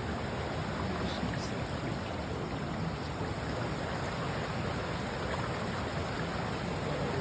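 Steady, even rush of the Green River's flowing water, with two faint high chirps about a second in.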